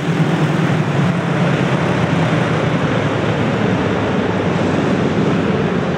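Speedway motorcycles racing: 500 cc single-cylinder methanol engines running hard in a loud, steady drone.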